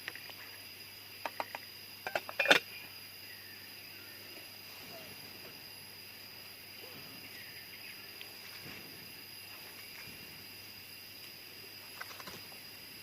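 Steady high-pitched drone of jungle insects, with a few short sharp clicks or knocks about a second in and a louder quick cluster of knocks at about two and a half seconds, then a few faint clicks near the end.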